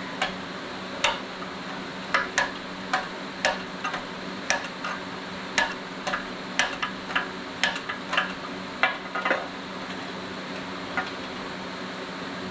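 Irregular sharp metallic clicks and taps of hand tools working on engine parts, about one or two a second, thinning out near the end, over a steady hum.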